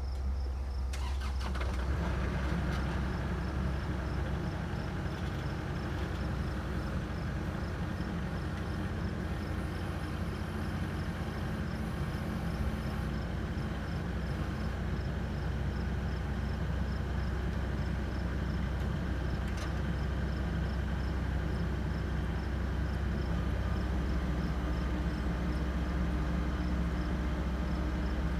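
Vehicle engines running steadily under load while a mired Kubota MX5200 tractor is being towed out of mud, with more engine sound joining about a second and a half in. A faint regular high ticking runs underneath.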